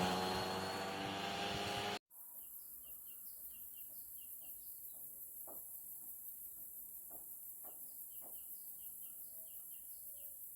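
A passing vehicle fades out, then the sound cuts abruptly to a quiet scene. A small bird repeats short chirps, mostly in pairs, over a steady high insect-like hiss.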